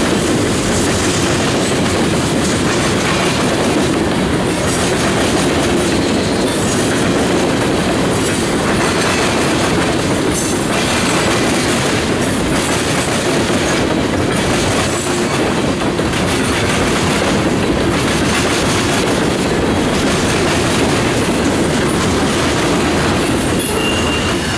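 Train cars rolling past close by, a steady rumble with the wheels clattering on the rails, and a brief high wheel squeal about halfway.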